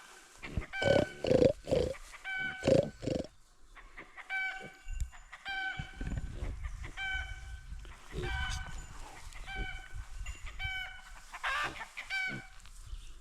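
Chicken clucking and calling over and over in short pitched notes, about one a second, with some louder, lower calls in the first few seconds and a low rustling rumble in the middle.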